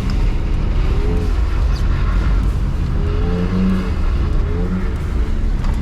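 BMW E46 320i's M54B22 inline-six engine revving up and down several times as the throttle is worked in a drift, over a steady low rumble of road and tyre noise.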